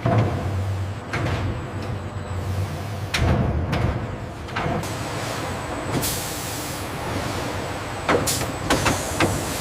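Factory machinery in a piston production line: a low hum with a few knocks, then a hiss from about six seconds in and a quick run of sharp clacks near the end.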